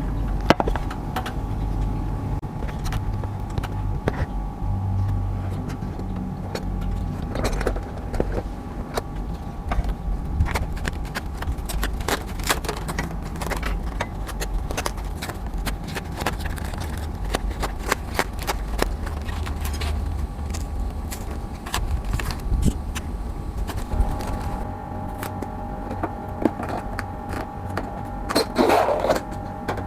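Light clicks and scrapes of hand tools working on refrigerant piping, over a steady low rumble and a faint steady hum.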